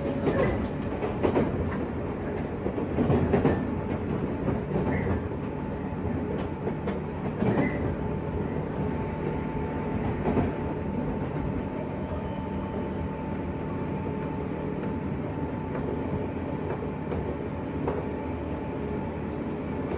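JR West 201 series electric train running, heard from inside a motor car: a steady hum of motors and wheels on rail. A few short knocks come in the first half.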